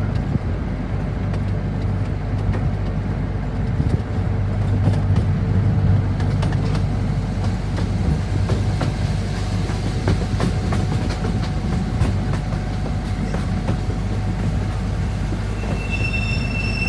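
Miniature passenger train running along its track, heard from an open car: a steady low rumble of wheels on rail with scattered clicks over the rail joints and a faint thin wheel squeal. A high thin tone starts near the end.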